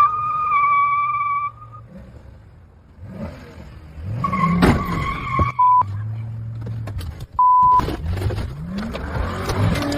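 Car tyres squealing briefly, then more squealing and a sharp crash impact about halfway through. Two short, steady beeps follow a second or two apart, over road noise.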